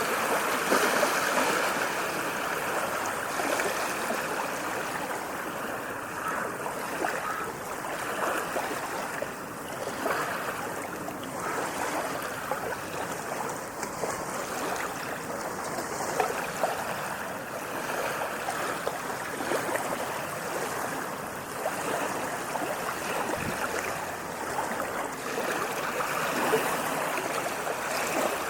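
Sea waves washing in, a continuous rush of water that swells and eases gently.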